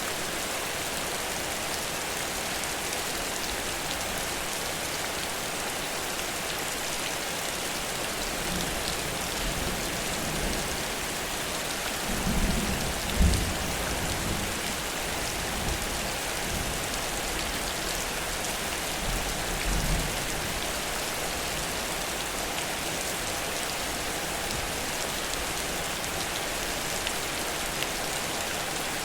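Heavy rain falling steadily, a dense even hiss of drops. Brief low rumbles come about twelve seconds in, with a sharp thump, and again near twenty seconds.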